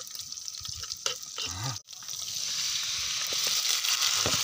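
Pieces of chicken tipped into a hot wok of frying garlic, setting off a loud, steady sizzle about two seconds in. Before that there is only quiet frying with a few light knocks.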